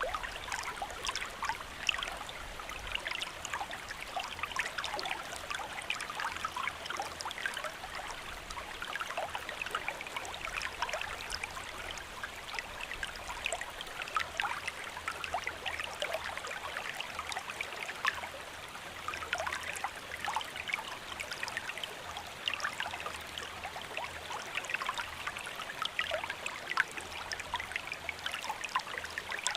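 Steady rain falling, a dense patter of many small separate drops over an even hiss.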